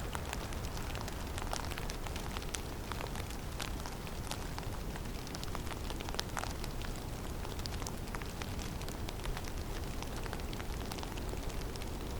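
Snowstorm in a forest: a steady low wind rumble under a constant, irregular patter of many small ticks of snow and ice hitting surfaces.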